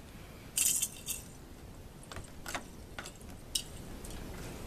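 Light clinks and clicks: a quick cluster about half a second in, then a few single sharp clicks spread apart, over a faint steady rush of wind.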